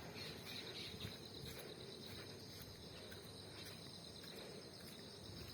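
Faint, steady chorus of insects shrilling in a high band that pulses a little, with a low background rumble.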